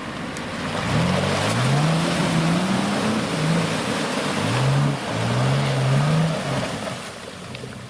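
4x4 SUV engine revving hard in a string of rising surges, starting about a second in and easing off near the end, over a rushing wash of spinning tyres churning mud and water.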